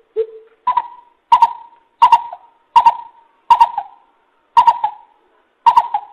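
Coucal (chim bịp) giving its deep hooting call as a lure: a series of about eight short hoots, roughly one every 0.7 seconds. The first hoot is lower, and from about a second in the hoots are higher and louder.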